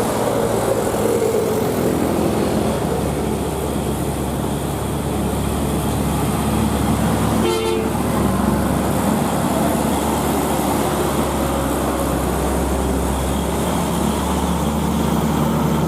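Heavy road vehicles running steadily, with a tone sliding down near the start and one short vehicle horn toot about halfway through.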